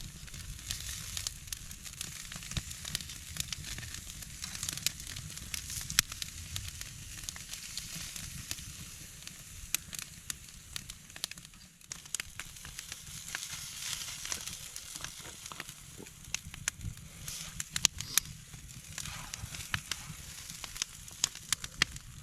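Chicken frying over a campfire: a steady sizzle with frequent sharp pops and crackles.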